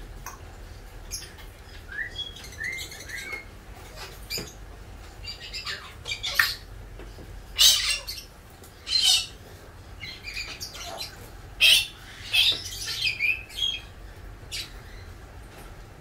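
Birds squawking and chirping: a string of short, harsh, hissy squawks, loudest around the middle, with a few thin rising chirps a few seconds in.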